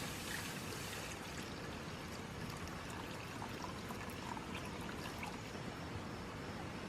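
Liquid pouring, brightest in the first second and then settling into a quieter steady trickle-like hiss with a few faint clicks.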